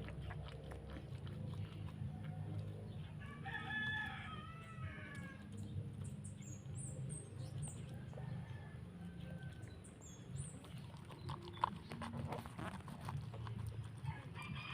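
A rooster crows once, about three and a half seconds in, over a steady low hum. A few short high chirps follow later.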